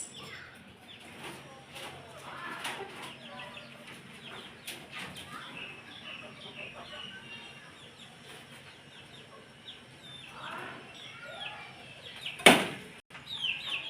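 Farmyard poultry: hens clucking now and then among many small birds chirping. A single loud, sudden noise comes about twelve and a half seconds in.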